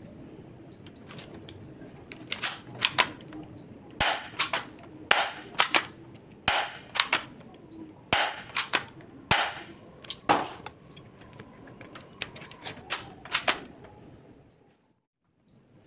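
Spring airsoft guns being reloaded and fired: a string of sharp, irregular snaps and clicks, some in quick pairs.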